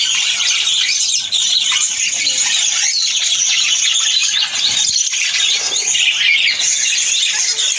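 A dense chorus of high-pitched squealing bird calls, many overlapping without pause.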